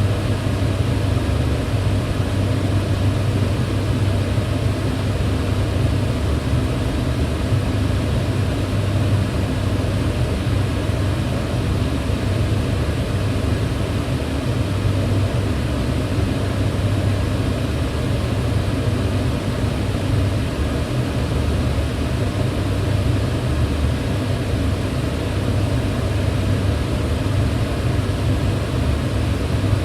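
Kitchen range hood fan running steadily, a constant low rushing hum strongest in the bass.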